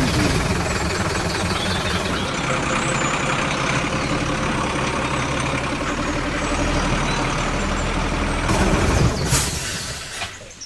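A vehicle engine, restarted after stalling, starts up abruptly and runs steadily and loudly. Near the end it changes briefly and then dies away.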